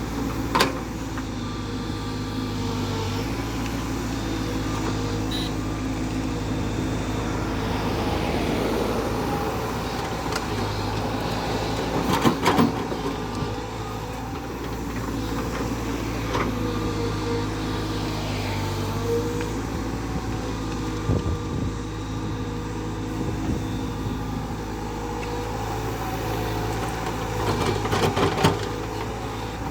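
Diesel engine of a JCB backhoe loader running steadily, with a few sharp metallic clanks, loudest about twelve seconds in and again near the end.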